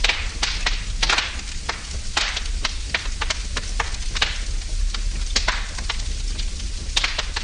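Wood fire burning in a fireplace: a steady hiss with irregular sharp crackles and pops from the burning logs, several each second, over a low rumble.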